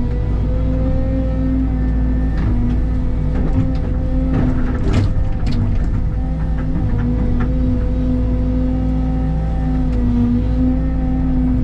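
Excavator's diesel engine running at a steady pitch, with several sharp knocks and clanks from the machine working.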